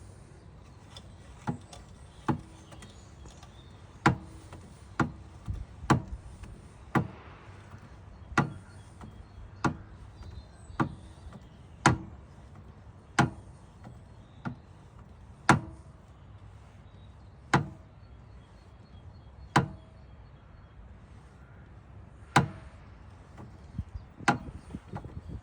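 Repeated sharp knocks, about eighteen of them at uneven gaps of one to two seconds, over a low steady hum.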